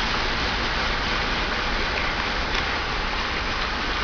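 Steady, even rushing noise of water, the sound of a vehicle riding along a rain-flooded road.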